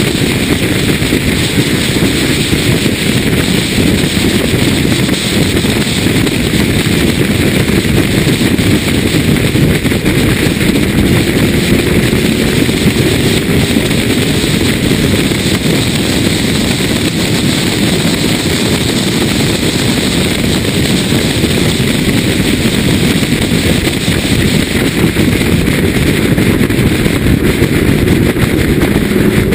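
BMW E36 M3's straight-six engine running hard at track speed, heard from onboard over heavy wind noise on the microphone. The engine note climbs slowly a couple of times as the car accelerates.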